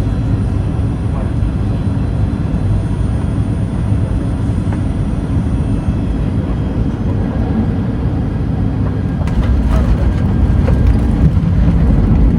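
Cabin noise of a Boeing 737 MAX 8 in flight near landing: a steady low rumble of engines and airflow. About nine to ten seconds in it grows louder, with a few brief knocks.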